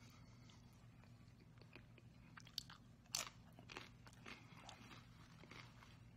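Faint chewing and crunching of a crisp tostada shell, with a few sharper crunches about halfway through.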